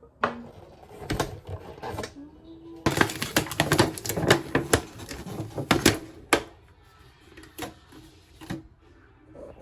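A rapid run of sharp clicks and knocks, like hard objects being handled, densest from about three to six seconds in and thinning to scattered knocks after.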